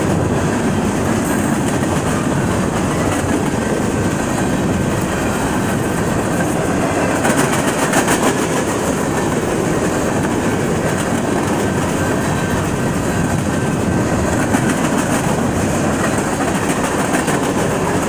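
Freight train of covered hopper cars rolling past: a loud, steady rumble of steel wheels on rail with clickety-clack over the rail joints. There is a stretch of sharper clatter about seven seconds in.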